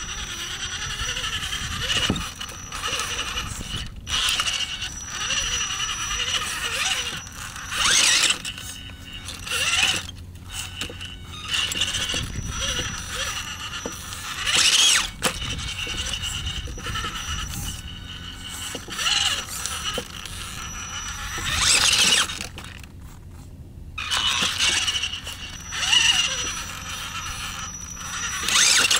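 Electric drivetrain of an RC rock crawler with a Tekin Roc 412 brushless motor whining steadily in gear as it is driven, broken by about six short, louder bursts of noise as it is throttled up over the rocks.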